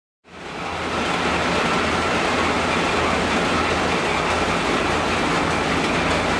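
Engine-room machinery running: a loud, steady mechanical din with a low hum and a faint high whine. It fades in after a brief gap at the start.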